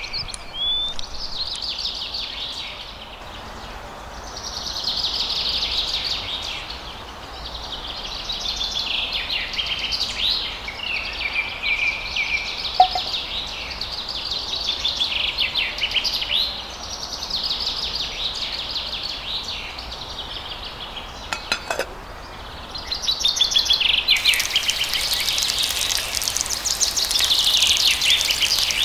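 Small birds chirping and chattering in repeated bursts, with a couple of light metal clinks from tiny steel pots. From about three-quarters of the way in, a fine sizzle of hot oil as small pieces of fish fry in a miniature pan.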